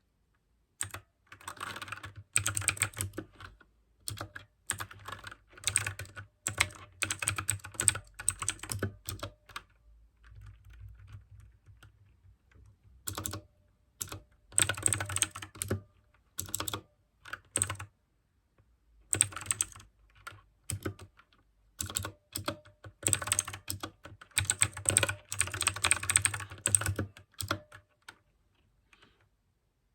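Mechanical keyboard with clicky blue switches being typed on fast, in runs of rapid keystrokes broken by short pauses.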